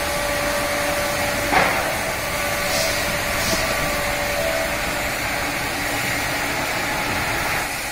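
CW-1520-2 two-spindle CNC wood lathe running: a steady machine noise with a faint constant hum, and one short knock about a second and a half in.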